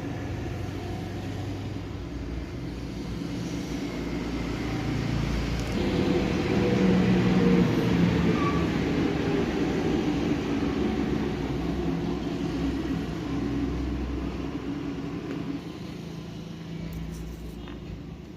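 Diesel truck engine running. It gets louder about six seconds in, holds for a few seconds, then gradually eases back down.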